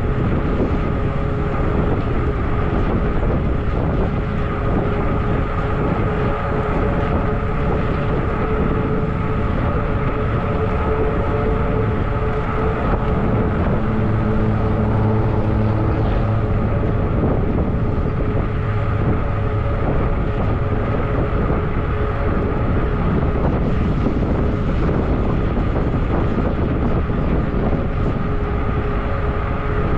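Zota Zephyr fat-tire e-bike being ridden under pedal assist: a steady motor whine over wind and tyre noise. Partway through, a deeper hum joins for several seconds.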